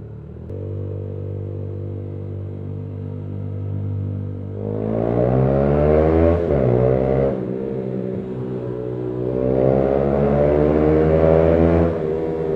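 Yamaha YBR 125's single-cylinder four-stroke engine heard through a Leo Vince GP Corsa full exhaust system with the baffle removed: running steadily, then revving up twice, the pitch rising each time and then dropping away.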